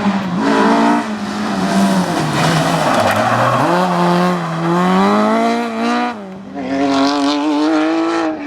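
Rally car engine under hard driving, its revs climbing and falling repeatedly through gear changes and lifts. The engine note dips briefly just after six seconds, then climbs again.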